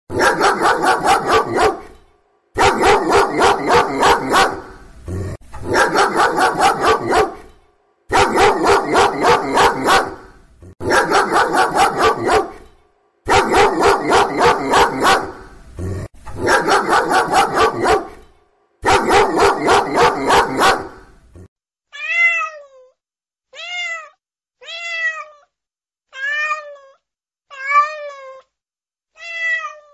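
A dog barking in quick runs of about four barks a second, each run about two seconds long with short gaps between, for about the first two-thirds. Then a cat meowing: a string of short meows about one a second, each rising and then falling in pitch.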